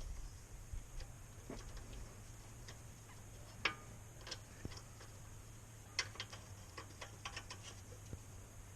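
Socket wrench ratchet clicking as the oil drain plug is screwed back in: scattered quiet metallic clicks, with a quick run of them about six seconds in.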